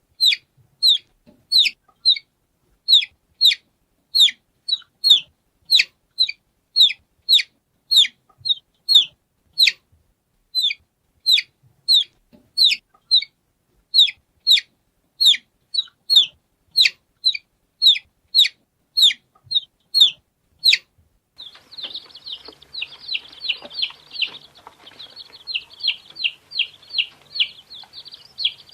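Baby chick peeping: single high peeps, each falling in pitch, about two a second. About three quarters of the way through, several chicks take over, cheeping faster and overlapping over a faint background hiss.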